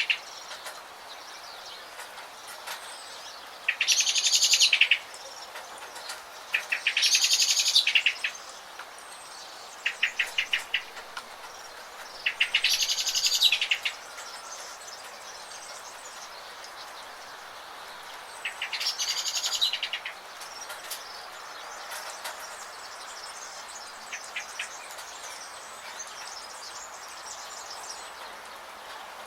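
A songbird singing loud, high-pitched, rapidly trilled phrases about a second long, five times with pauses of a few seconds between, over a steady hiss with faint scattered chirps of other birds. The song fades out in the last third.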